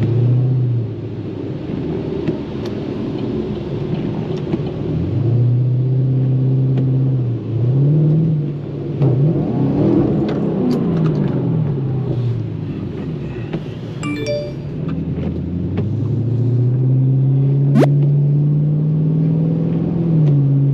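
2013 Chevrolet Camaro SS's 6.2-litre V8 engine heard from inside the car while driving: its pitch climbs and drops several times through the gears, then holds a long steady pull over the last few seconds.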